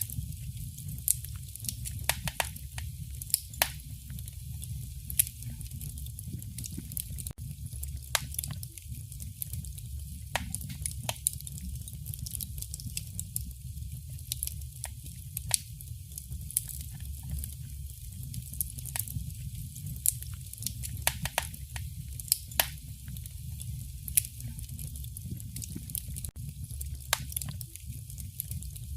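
Wood fire burning in a fireplace, crackling and popping with sharp irregular snaps every second or so over a steady low rumble and a soft hiss.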